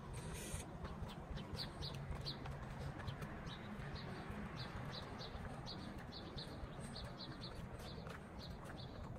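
Small birds chirping: many short, high chirps scattered throughout, over a low steady background rumble.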